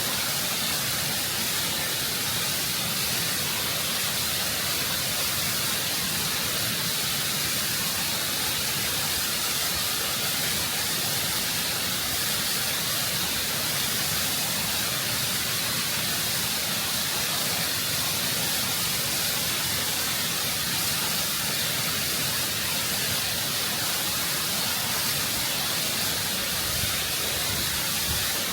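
Waterfall heard close up, water pouring and splashing over rock in a steady, constant rush with a strong hiss.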